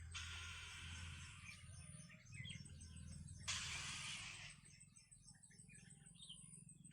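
Small birds chirping repeatedly, faintly, with two spells of hiss, the louder and shorter one about halfway through.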